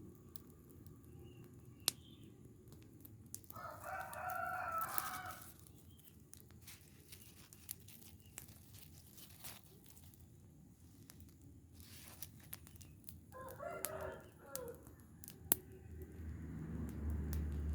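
A rooster crowing twice, the first crow lasting about two seconds, the second a little shorter about two thirds of the way through, over scattered sharp clicks. A low rumble builds near the end.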